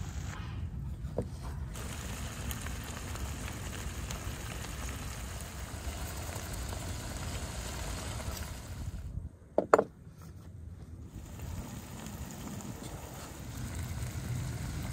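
Meat and chopped vegetables frying in a large pan, a steady sizzle under a low rumble of wind on the microphone. Two sharp knocks about two-thirds of the way through.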